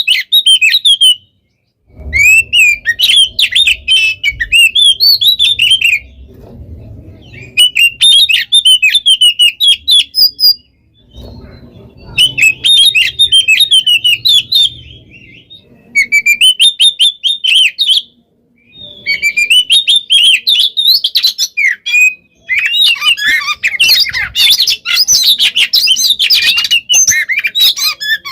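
Oriental magpie-robin (kacer) singing in rapid, dense bursts of chattering and whistled phrases, broken by pauses of a second or two. The song is busiest near the end, and a faint low rumble runs under some phrases.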